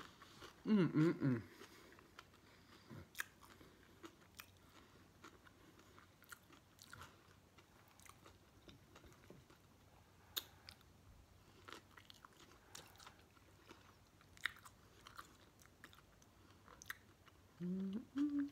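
Close-up mouth sounds of a person chewing a sub sandwich: soft wet smacks and small crunches, scattered irregularly. A short hummed voice sound comes about a second in and again near the end.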